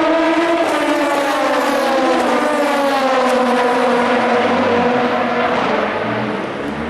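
Endurance race car engine running loud at speed, its pitch falling slowly over several seconds as the car goes by.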